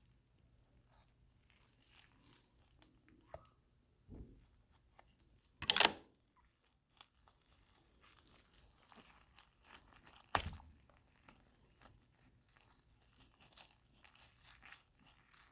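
Gloved fingers working and pulling apart connective tissue of a preserved cat's thigh: faint scattered crinkles and small clicks, with one short tearing rustle about six seconds in and a sharp click about ten seconds in.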